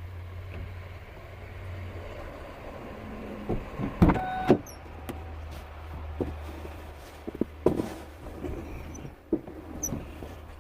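A vehicle's engine idling with a steady low hum. A few sharp knocks cut through it, the loudest about four seconds in with a brief metallic ring, and more near eight seconds.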